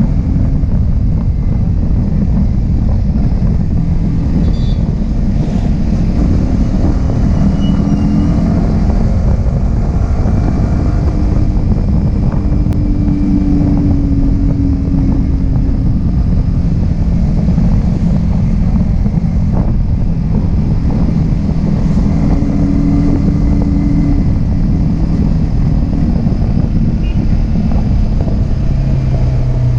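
Yamaha R15M's 155 cc single-cylinder engine running on the move, its pitch drifting up and down with speed and dropping lower near the end, under heavy wind rush on the action camera's microphone.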